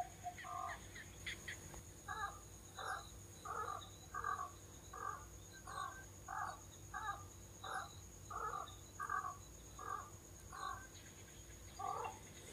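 A bird calling in a long, even series of about a dozen short, harsh, caw-like calls, roughly one every half second to second, starting about two seconds in. A faint steady high tone runs underneath.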